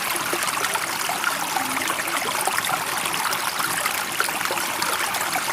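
Running water flowing steadily with a fine trickling, bubbling texture.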